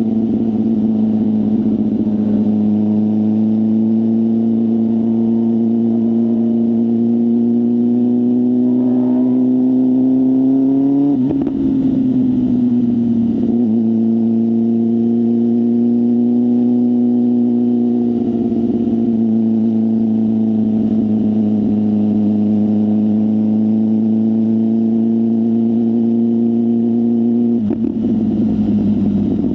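BMW S1000RR inline-four motorcycle engine on a full aftermarket exhaust system, heard from the rider's seat while riding. The engine holds a steady note, creeps up in revs, and drops sharply at a gear change about eleven seconds in. It settles into a steady note again, with a second sharp break near the end.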